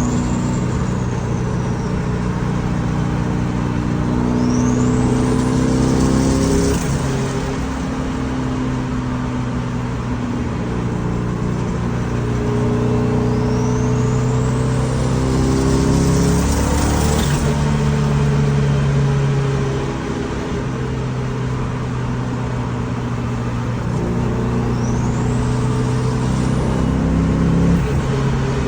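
Turbocharged VW Beetle engine pulling hard through the gears, its note rising with each pull while the turbo whistle climbs in pitch as it spools up, three times. Just after the start a whistle dies away as the turbo winds down.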